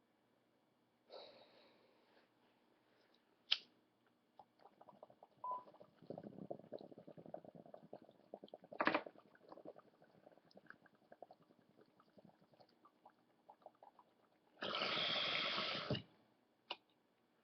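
Hit from a glass bong: a click or two, then water bubbling and rattling through the tube for a few seconds. Near the end comes a loud rush of air lasting about a second.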